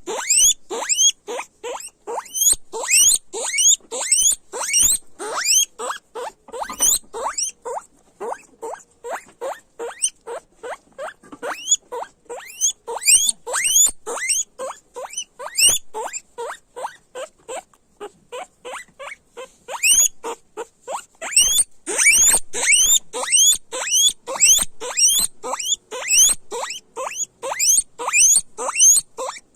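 Guinea pigs squealing loudly: a steady run of short, high, rising wheeks, about two a second, with a brief lull in the middle.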